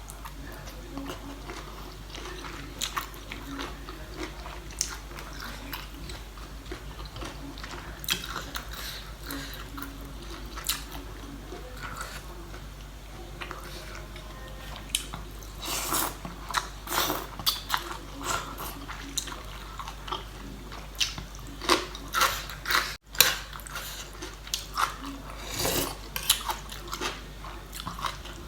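A person biting and chewing seafood papaya salad, with scattered crisp clicks and crunches that come much thicker about halfway through, over a low steady hum.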